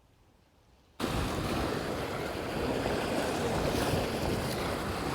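Wind blowing across the microphone over lake waves washing onto the shore. It cuts in as a steady rush after about a second of dead silence.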